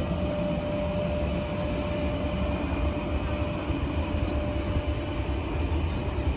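Train noise: a steady rumble and hiss with a thin whine that fades out about a second in.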